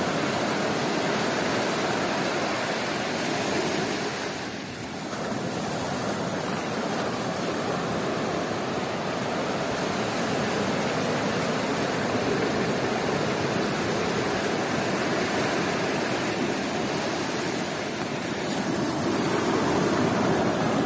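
Sea surf breaking on a beach: a continuous wash of waves that eases briefly about four seconds in and again near the end, then swells back up.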